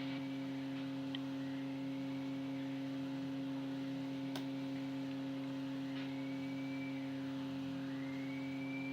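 Steady electrical hum, with faint whistling tones that slide up and down now and then, more often near the end.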